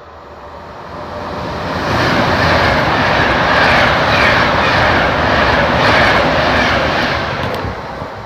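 Train passing through the station at speed. It is a loud rush of wheel and air noise that swells over the first two seconds, holds for about five seconds, then fades away.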